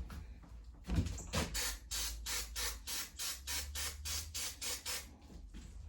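Quick back-and-forth scrubbing strokes on a mower carburetor part being cleaned, about five strokes a second for some three seconds, after a single knock about a second in.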